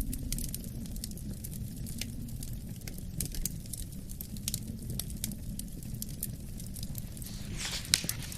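Wood fire crackling, with irregular sharp snaps and pops over a steady low rumble of wind; a brief hiss and a louder pop come near the end.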